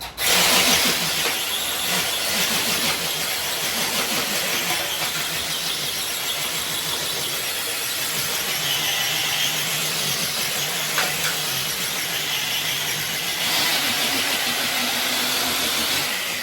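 Electric RC crawler truck pulling a weighted sled: its motor and geartrain whine under load over a steady hiss, starting suddenly and running evenly throughout.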